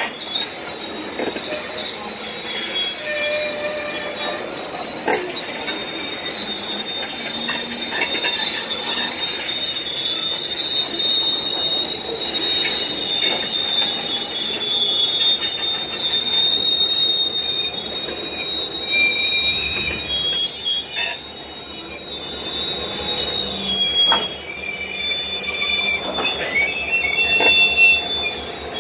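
Freight train of open-top hopper cars rolling slowly past, the wheel flanges squealing in long, high, wavering tones over scattered clicks from the rail joints. In the last third a pulsing low rumble comes in as the diesel locomotives draw near.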